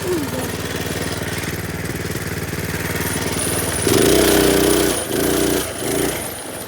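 Minibike's small engine running with a rapid, even firing beat, then revved in three short, louder bursts about four seconds in.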